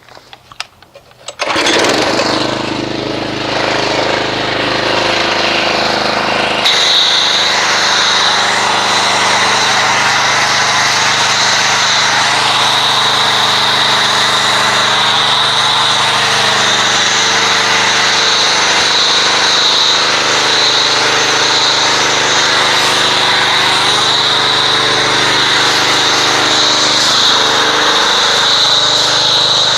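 A pressure washer starts up about a second and a half in and runs steadily. About seven seconds in the sound shifts and a steady high hiss joins the motor and pump drone, as the foam cannon begins spraying soap foam.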